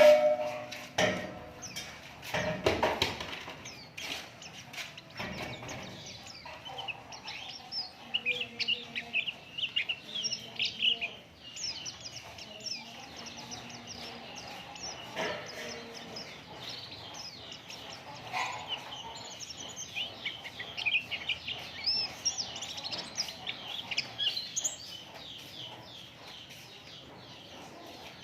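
White-eye (pleci) singing: a fast, high, chattering twitter that runs on in long phrases. A few loud sharp knocks come in the first few seconds.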